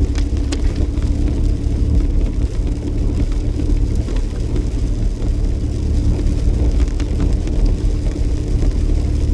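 Steady low road rumble and engine noise of a Jeep driving, heard from inside the cabin, with a faint steady hum and a few light clicks.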